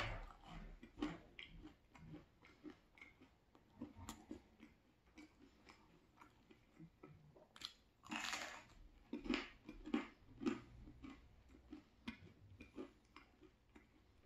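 Close-up chewing and biting of crispy thin-crust pizza: irregular crunches and mouth sounds, with a louder crunch a little past halfway followed by a quick run of crunches.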